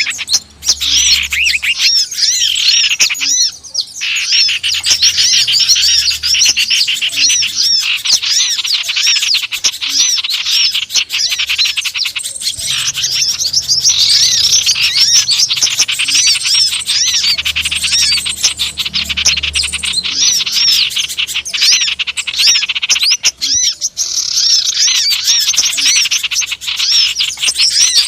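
Dense, continuous chatter of many small wild birds: rapid high chirps and trills overlapping without a break. This is a bird-lure (pikat) recording of noisy small birds, played to call wild birds in.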